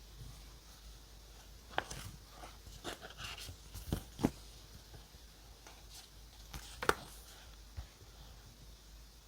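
Scattered small taps and clicks of stationery being handled on a desk during journaling, about a dozen sharp ticks, with a brief scratchy rustle around three seconds in.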